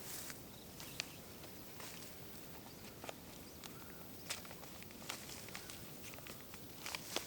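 Faint, scattered clicks and crackles, about ten over several seconds at an uneven pace, over a low steady hiss.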